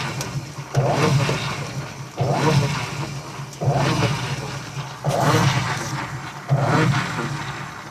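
Electrolux top-loading washing machine's motor switching on in a hum about every second and a half, the agitator stroking in one direction only. The technician suspects this fault lies in the control board or a broken capacitor wire.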